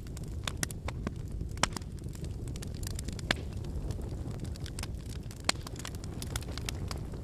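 Campfire of burning firewood: a steady low flutter of flames with frequent sharp crackles and pops from the logs, a louder pop about a second and a half in and again a little after three seconds.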